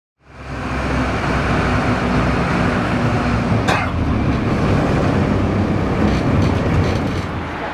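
Background noise of a busy model railway exhibition hall: a steady rumble and hiss, with one short sharp sound about three and a half seconds in.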